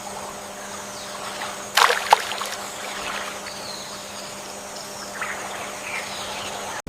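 Natural outdoor ambience with a few faint high bird chirps, and a brief loud splash of water a little under two seconds in.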